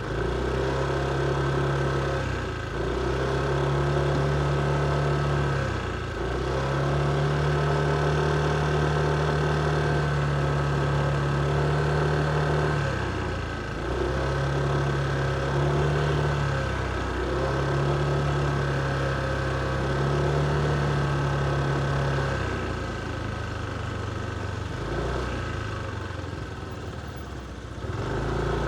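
Motorcycle engine running at low revs while riding at low speed: a steady hum that eases off and picks up again every few seconds as the throttle is closed and reopened.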